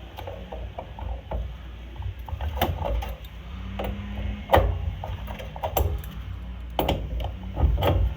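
Irregular metallic clicks and scrapes of a wrench working the pilot tube fitting on a Coleman furnace's pilot assembly, snugging it tight so the pilot gas won't leak, over a steady low hum.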